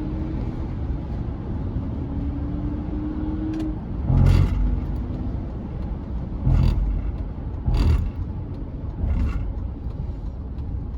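Road and engine noise inside a Chevrolet C10 pickup's cab while driving, a steady low rumble with a faint drone that rises slightly during the first few seconds. From about four seconds in come four sharp knocks or jolts, irregularly spaced.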